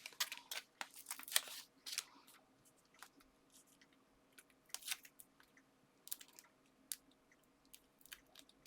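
Paper and card being handled: scattered crisp crinkles and clicks, thickest in the first two seconds and again around five and six seconds in.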